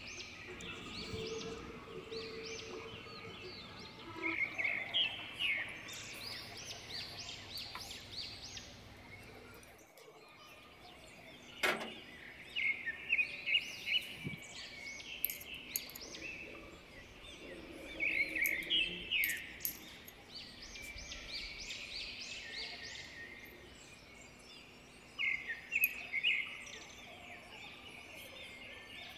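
Small birds chirping in several bursts of quick, high repeated notes, over a faint steady hum, with one sharp click near the middle.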